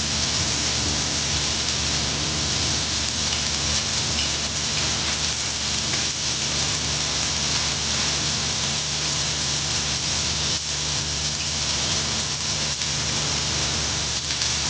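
Food frying in a pan, a steady even sizzle.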